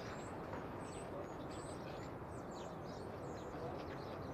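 Birds chirping in short, high calls over a steady low background noise.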